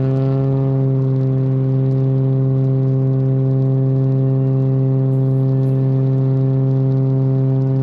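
Cessna Turbo 210's turbocharged six-cylinder engine and propeller running steadily at high power, one even droning tone that holds a constant pitch.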